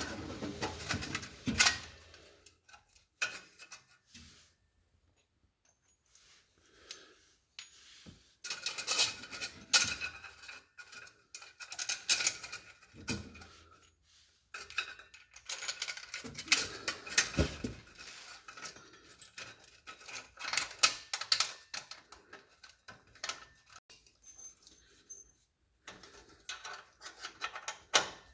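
Metal tools and parts being handled, clinking and clattering in irregular bursts with quiet gaps between.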